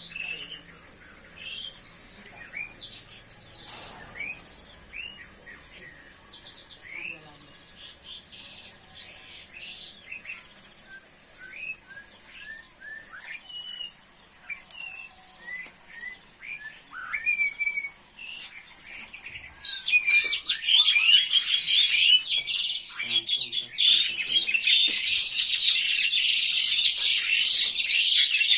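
Small birds chirping in short, quick rising and falling notes; about twenty seconds in, a much louder, dense chatter of rapid chirps starts and keeps going.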